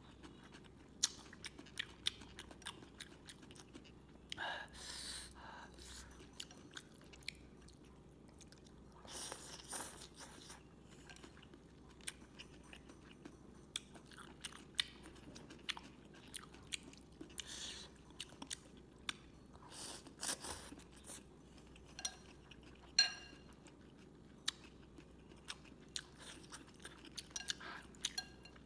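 Close-up eating sounds of a Vietnamese rice-noodle dish with bean sprouts: moist chewing and crunching with many small sharp clicks, and several longer noisy mouthfuls of about a second each.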